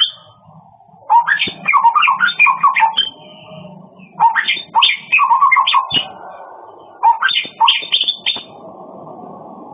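A murai (Copsychus songbird) singing in three bursts of quick, varied whistled notes, each about one to two seconds long, with short pauses between. A steady low rushing noise sets in after the last burst.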